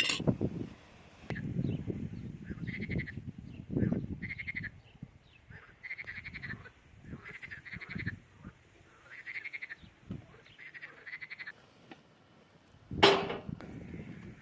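An animal's short, rapidly pulsing calls, repeated about once a second, over low thuds and rustles. A single sharp, louder sound comes near the end.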